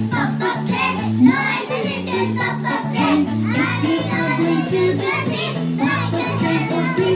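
Children singing an English nursery rhyme over backing music, held low accompaniment notes moving step by step beneath the voices.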